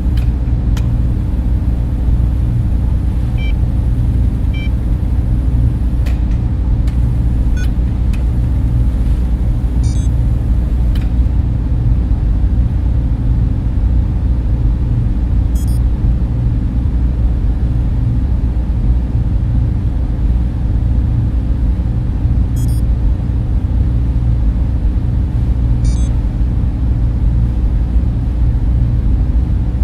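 Steady, dense low rumble of a data center's server fans and cooling, with a few faint high ticks.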